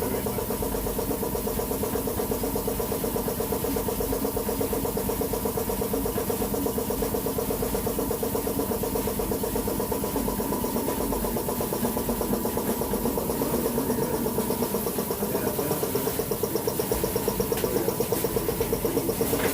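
A motor or small engine running steadily, a constant hum with a fast, even pulse, growing a little louder near the end.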